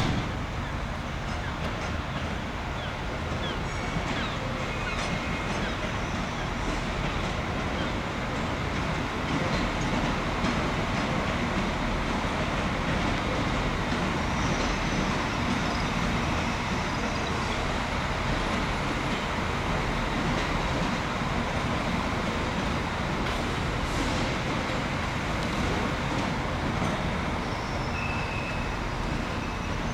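Class 196 diesel multiple unit running steadily at the platform: a continuous diesel rumble with rail noise, swelling slightly in the middle.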